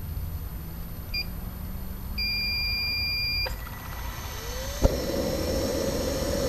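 Small jet turbine on a wheelchair starting up: a short beep and then a longer beep from the control unit, a click, the starter's rising whine, a sharp crack about five seconds in, then the turbine running with a steady rush and a high whine.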